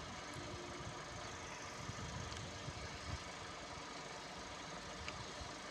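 A car engine idling steadily, with irregular low rumbling underneath.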